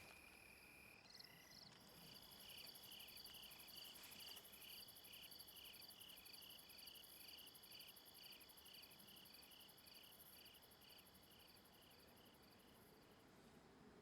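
Faint insect chirping, an even run of short high chirps at about two a second.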